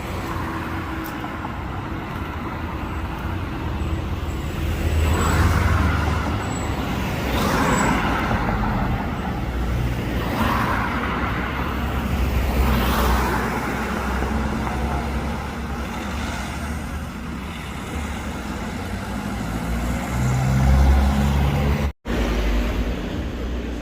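Road traffic: a steady background of engine and tyre noise, with several vehicles passing one after another.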